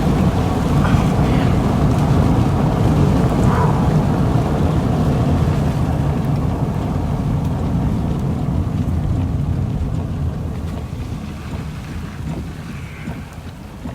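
Road and engine rumble heard from inside a moving vehicle's cabin, a steady low noise that grows gradually quieter over the last several seconds.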